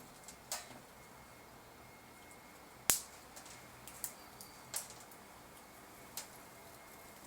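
A squirrel close by making a few sharp clicks and cracks at irregular intervals, the loudest about three seconds in.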